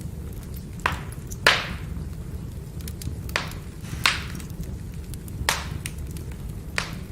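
Burning firewood crackling over a steady low rumble of the fire, with about six sharp pops; the loudest comes about a second and a half in.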